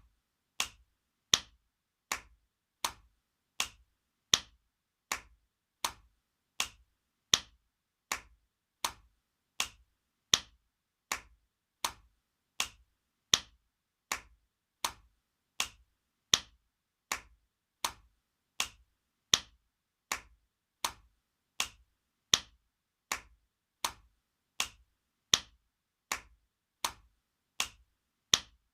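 Spanking sound effect: a hand slapping skin, one sharp smack about every three-quarters of a second in an even repeating rhythm, some strikes louder than others.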